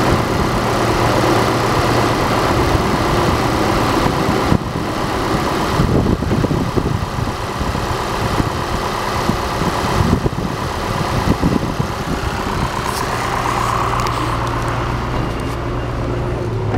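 Audi A4 B8's 1.8 TFSI turbocharged four-cylinder petrol engine (code CDHB) running steadily on a test.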